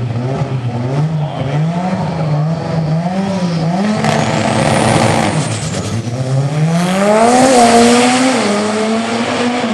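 Drag race car engine with its revs wavering up and down at a low pitch, a loud rushing hiss about four seconds in, then the revs climbing steadily for about a second and a half before holding at a steady, higher pitch.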